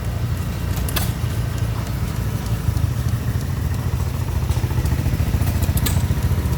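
Small engine running steadily with a rapid low chugging, with a light click about a second in and another near the end.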